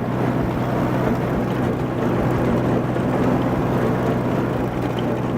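Allis-Chalmers D14 tractor's four-cylinder engine running steadily under load while driving a Woods brush hog rotary mower through the power takeoff, cutting grass.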